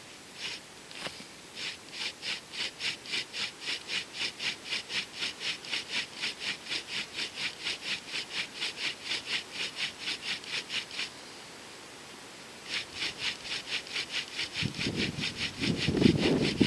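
Homemade Archimedes-screw fire drill: the wooden spindle grinding into a wooden fireboard in quick, even strokes, about three or four a second, as it bores the starting hole. The strokes stop for a moment about two-thirds through, then resume, and a louder low rustling joins near the end.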